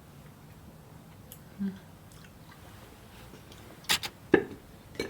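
A person biting and chewing a piece of food, with a few sharp clicks and knocks close together about four seconds in.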